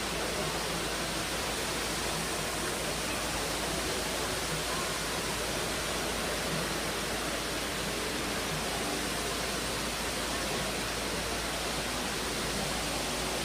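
Water cascading down the multi-storey walls of the Dubai Mall Waterfall installation: a steady, even rush of falling water.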